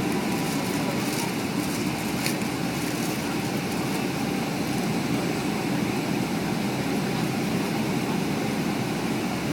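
Steady cabin noise of a Boeing 757-200 airliner: engine and airflow noise holding an even level with no change in pitch.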